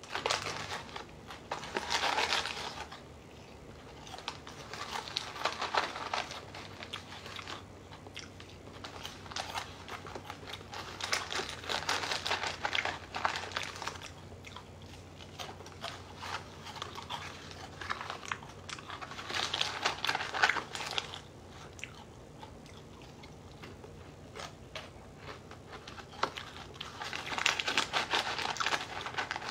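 A person chewing dry Lucky Charms cereal by the handful, crunching in about five bouts of a few seconds each. The small cardboard cereal box rustles as it is handled.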